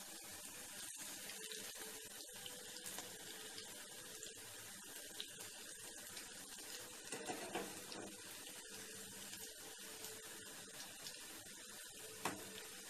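Masoor dal pakoras sizzling steadily as they shallow-fry in hot oil in a frying pan, with a slotted spatula scraping and tapping against the pan as they are turned; one sharp tap near the end.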